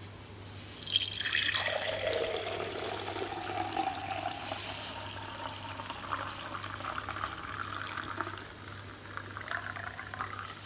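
Water from a tap turned on about a second in and running steadily into a sink or vessel, its pitch shifting at first as the stream settles.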